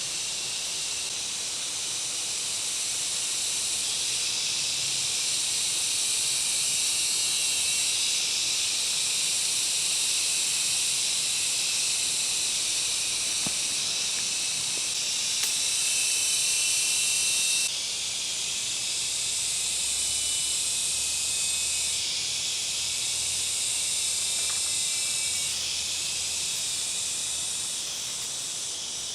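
A loud, steady chorus of buzzing insects, high-pitched, shifting abruptly in tone a few times.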